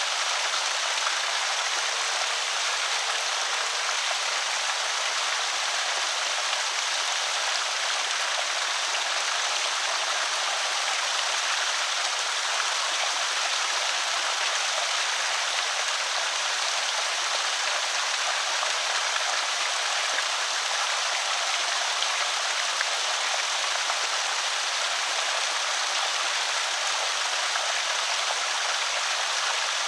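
Creek water pouring over a small spillway: a steady, even rush of splashing water.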